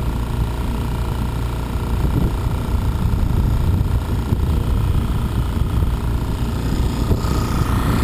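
Boat motor running steadily at an even pitch, with a constant low rumble.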